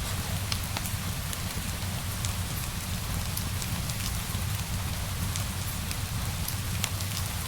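Steady rain hissing over a low rumble, with scattered sharp crackles from a wood fire in a fireplace.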